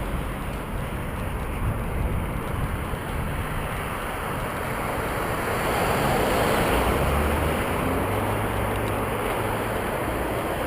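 Wind rushing over a bike-mounted GoPro microphone while riding, swelling for a few seconds in the middle and easing again.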